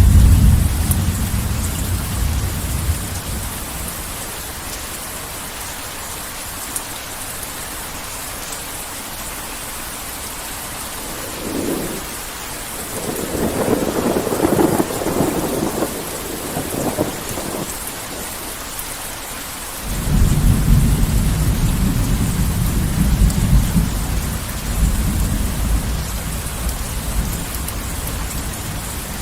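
Heavy rain falling steadily, with rolling thunder: a low rumble dying away in the first few seconds, a sharper crackling roll about halfway through, and a deep, loud rumble that starts suddenly about two-thirds of the way in and rolls on to the end.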